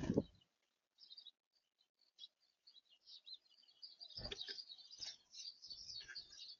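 Small birds chirping, many short high calls overlapping. A loud low thump comes right at the start, and a few softer thumps about four to six seconds in.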